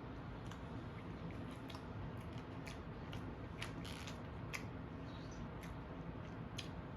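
A person chewing a mouthful of food close to the microphone, with irregular short wet mouth clicks and smacks over a steady low hum.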